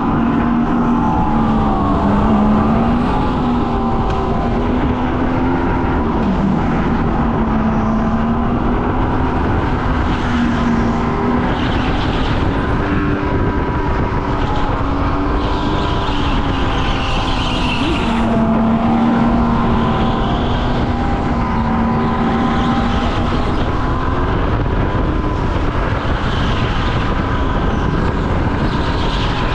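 Racing go-kart's engine running under changing throttle, its pitch rising and falling again and again through the corners over a steady rush of noise.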